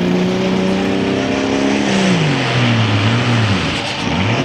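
Light Pro Stock pulling tractor's diesel engine running at full revs under load. About halfway through, the revs drop sharply and then waver up and down unevenly, falling off as the run ends short.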